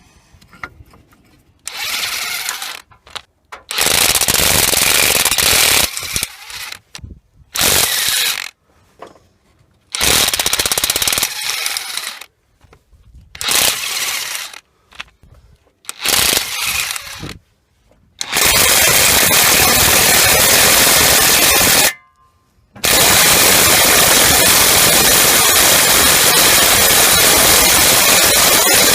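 Dewalt DCF894H 20-volt XR cordless impact wrench hammering in repeated bursts: six short ones of one to two seconds, then two long runs of about four and seven seconds.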